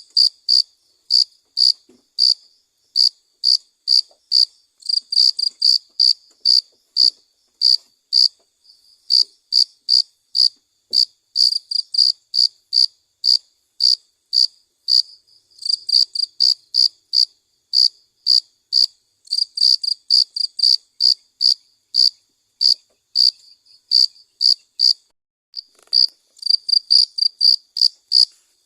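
Cricket chirping: a steady run of short, high chirps, about two or three a second, some coming in quick clusters.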